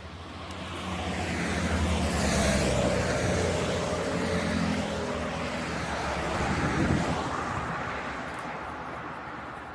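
A motor vehicle driving past, its engine and tyre noise growing to a peak about two to three seconds in, then fading away, with a second smaller swell near seven seconds.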